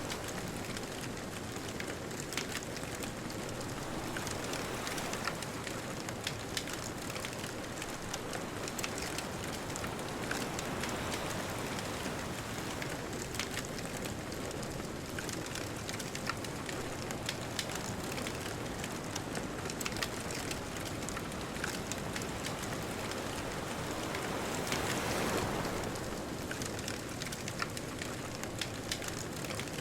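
Wood bonfire crackling, with quick irregular pops and snaps over a steady wash of ocean waves; one wave swells louder about twenty-five seconds in.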